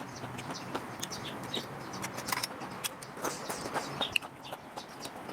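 Birds chirping in many short, scattered calls over a low steady background hum.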